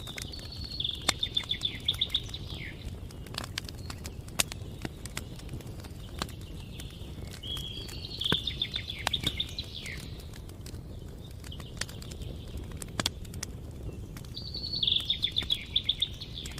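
Campfire crackling with scattered sharp pops, while a songbird sings three short trilled phrases about seven seconds apart.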